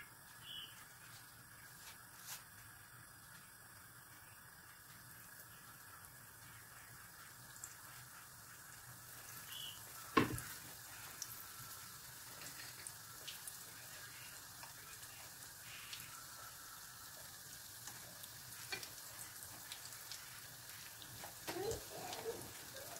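Crumb-coated Korean-style corn dogs frying in shallow oil in a frying pan: a faint sizzle with fine crackles that picks up about ten seconds in, with a single knock around then. A few light taps near the end as chopsticks turn the corn dogs.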